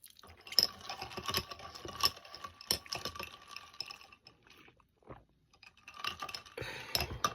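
Rapid clicking and rattling of small hard objects being handled, in two stretches with a pause about four seconds in.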